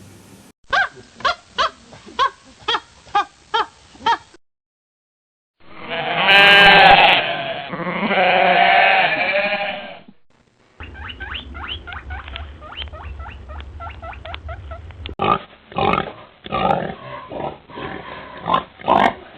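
Farm animal calls in three separate recordings, cut one after another. First comes a run of about nine short calls, then two long, loud calls that waver in pitch, then a fast series of short sounds over a low hum, louder near the end.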